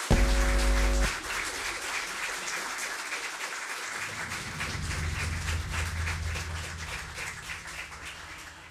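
Small audience applauding, a dense patter of hand claps that thins out toward the end. A loud low-pitched tone sounds for about the first second.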